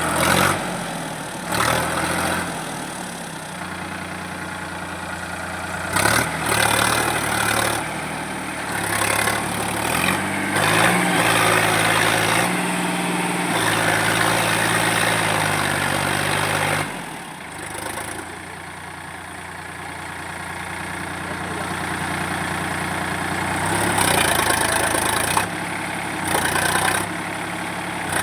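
Sonalika 745 DI tractor's diesel engine working under the load of a trolley full of stone chips. It runs steadily and rises in louder surges, the longest lasting several seconds, as the throttle is opened and eased.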